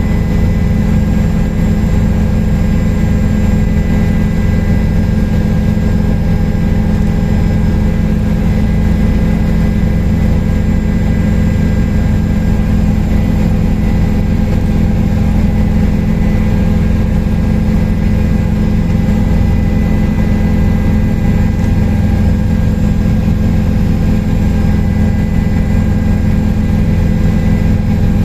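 Helicopter in steady flight: a continuous loud drone of rotor and engine with a steady whine over it, unchanging throughout.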